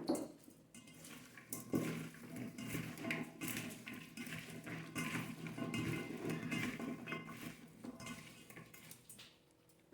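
Cutlery and cookware clinking and scraping, a busy run of small knocks for several seconds that thins out near the end.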